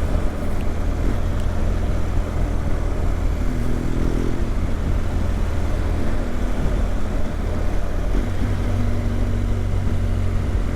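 BMW GS motorcycle running on the move, its engine note under a steady rumble of wind and road noise, with the revs rising briefly about four seconds in and changing again near eight seconds.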